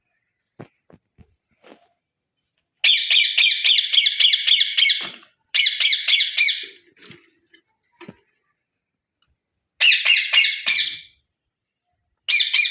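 Parrot chicks calling in bursts of rapid, rasping squawks, about five or six calls a second, four bursts in all. A few faint knocks come before the first burst.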